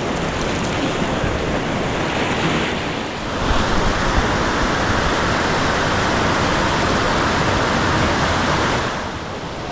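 Whitewater of a Class IV rapid rushing and churning, a steady loud hiss of turbulent water that swells louder from about three and a half seconds in and drops back near the end.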